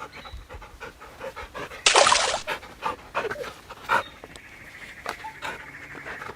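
A dog panting in quick, uneven breaths, with one loud breathy burst about two seconds in.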